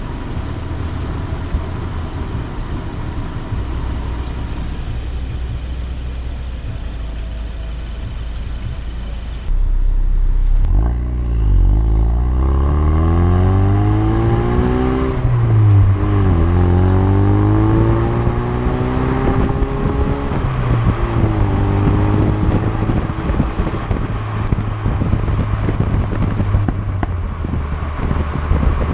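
Ford Focus RS's turbocharged 2.3-litre four-cylinder on its stock exhaust, running low and steady, then about ten seconds in getting louder and accelerating hard, rising in pitch with a sharp drop at each of two upshifts before settling into a steady drone.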